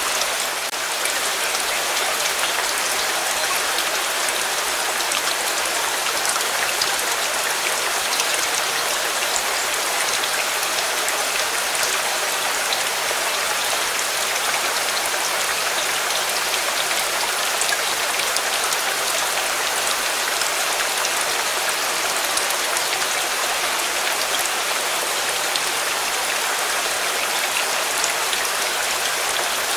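Steady rain falling in an even hiss, with scattered sharper drop ticks.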